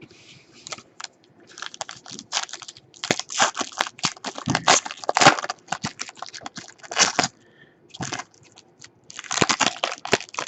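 Crinkling and crackling of a trading-card pack wrapper being torn open by hand, with the tightly packed cards being worked out of it. The crackles come in busy clusters, pause briefly about eight seconds in, then start again.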